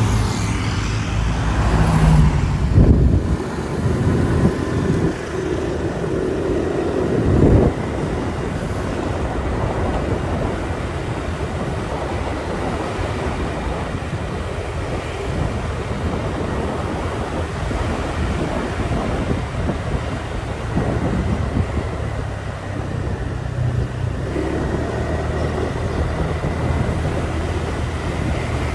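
Motorbike running along the road: a steady engine drone mixed with wind and road noise, with louder swells of passing traffic in the first several seconds.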